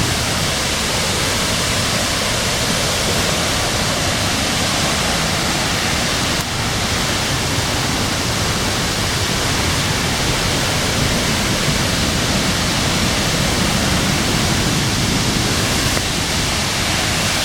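Several waterfalls falling into rock grottos, a loud, steady rush of water with no letup.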